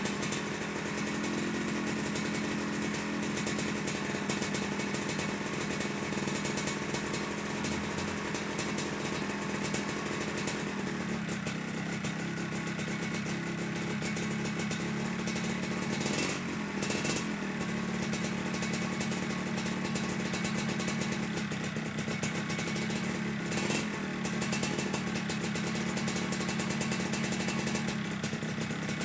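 Yamaha RXZ 135 cc two-stroke single-cylinder engine idling steadily while warming up, its exhaust leaking. A few brief sharper bursts come through around the middle and again about three-quarters of the way in.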